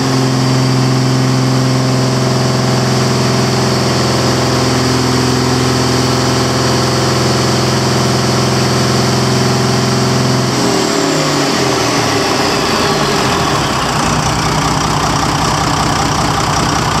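Volvo TD73 inline-six turbo diesel engine held at high revs, steady, then throttled off about ten and a half seconds in, the revs falling away to a lower idle for the rest.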